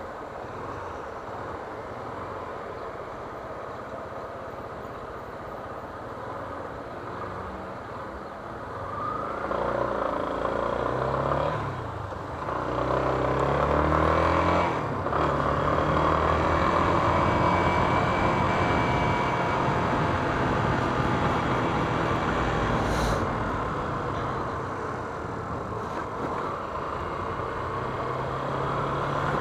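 Yamaha Fazer 250 motorcycle's single-cylinder engine running while riding. Its pitch rises and falls as it accelerates and shifts through the gears from about ten seconds in, over steady road and wind noise.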